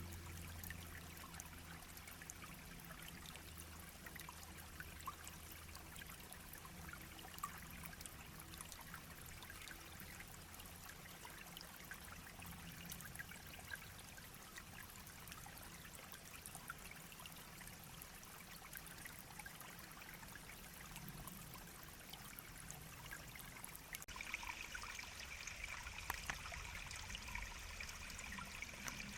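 Shallow brook babbling and trickling, a steady, even wash of running water. A steady high-pitched buzz joins about five seconds before the end.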